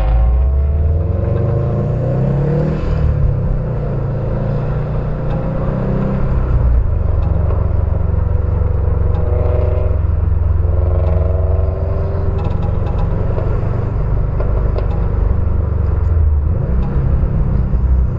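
Car engine exhaust rumbling loudly and steadily, with the revs rising about one to three seconds in.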